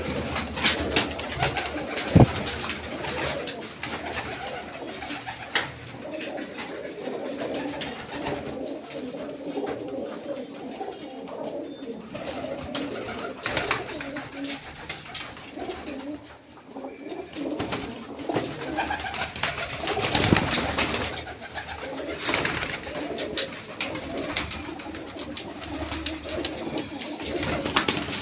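Pigeons cooing steadily in an enclosed space, with a few sharp knocks and short bursts of rustling between the calls.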